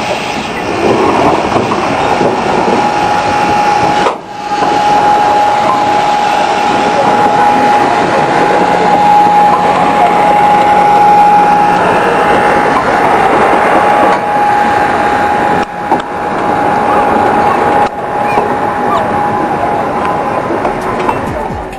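Steam-hauled retro train running: a loud, steady rolling noise with a constant high-pitched tone over it, broken by a few short drops.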